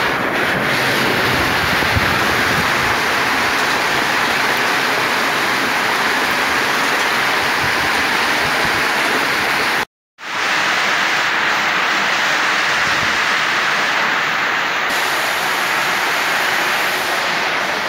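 Heavy summer rain pouring down steadily, a dense even hiss of water. The sound cuts out for a split second about ten seconds in.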